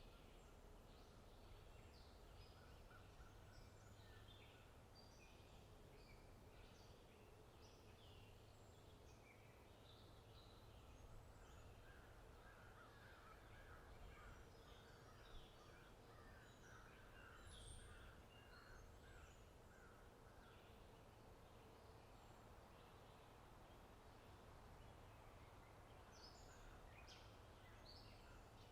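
Faint outdoor birdsong: many small birds chirping in short, high calls, with a denser run of calls about halfway through. A low steady hum lies underneath.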